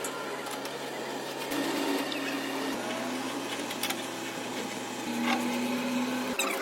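A machine running with a steady hum that steps in pitch a few times, with scattered clicks and knocks.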